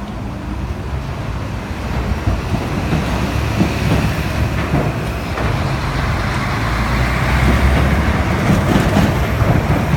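Keikyu Daishi Line electric train approaching and running over the level crossing: a rumble that grows steadily louder, with wheel clicks over the rail joints in the last few seconds.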